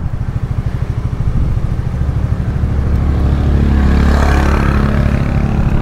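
Motorcycle engine idling with an even pulse, swelling louder from about two seconds in, with a rush of noise in the middle of the stretch.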